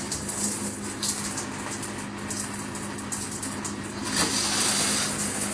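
Hiss of running water over a steady low hum, the hiss swelling louder about four seconds in.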